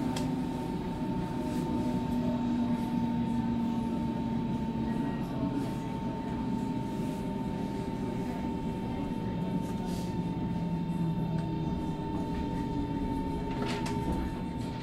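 Berlin S-Bahn electric train running, heard from inside the carriage: a steady rumble with a constant high tone over it and a lower hum that drifts slightly in pitch. A few sharp clicks come near the end.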